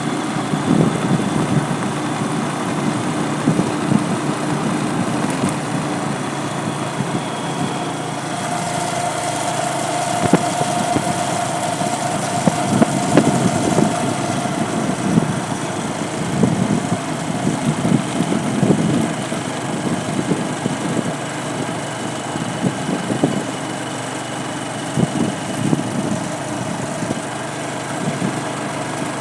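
A motor vehicle's engine running steadily, with an uneven, rough throb and no speech.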